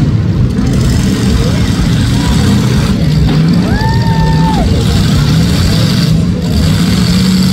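Demolition derby cars' engines running and revving, loud and continuous, with a brief steady pitched tone, like a horn, about four seconds in.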